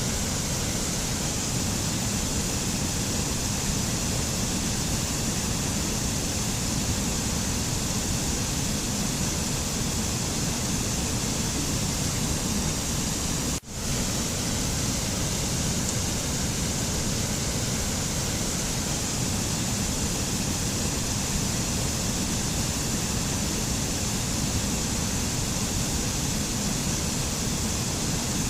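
Steady rushing noise of a mountain nature-sound track, even and without any tones, briefly dropping out for a moment about halfway through.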